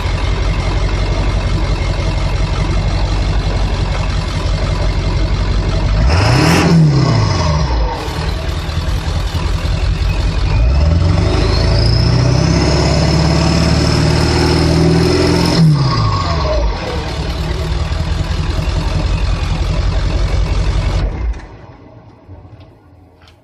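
1999 Ford 7.3-litre Powerstroke turbodiesel V8 with no muffler, running straight out of the downpipe: it idles, is revved once briefly, then revved and held for about five seconds with a rising whine as the turbo spools, and drops back to idle. The engine is shut off near the end.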